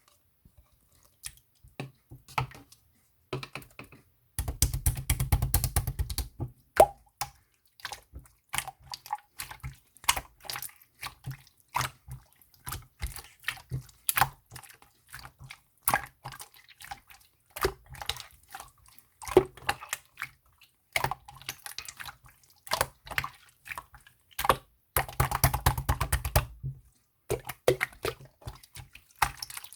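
Clear slime being squished and poked by hand, giving many small wet clicks and pops, with two longer runs of dense squishing, about four seconds in and again about twenty-five seconds in.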